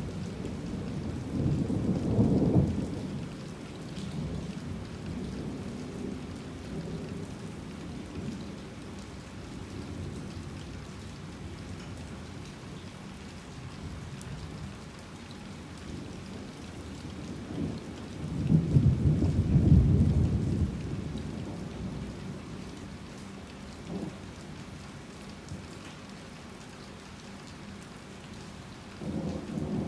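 Heavy rain falling steadily with thunder: a loud low rumble about two seconds in, a second, louder one around nineteen to twenty seconds, and another starting at the very end.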